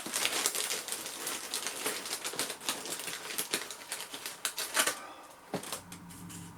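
Cracker packaging being opened and handled: a dense, fast crackle of crinkling and clicking that stops about five seconds in.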